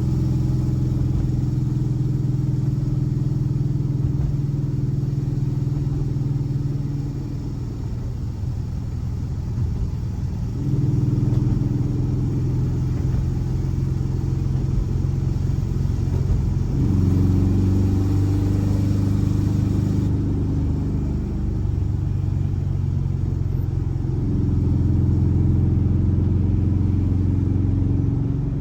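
Air-cooled 1584 cc flat-four boxer engine of a VW Beetle running. Its note holds at one pitch for a few seconds at a time, then shifts to another as the engine speed changes, with a quieter stretch about eight seconds in.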